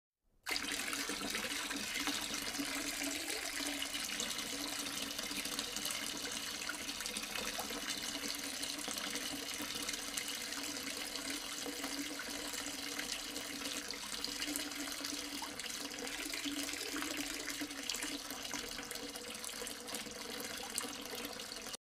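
Water running steadily through a small cement tabletop waterfall fountain, with an even trickling rush that cuts off suddenly near the end.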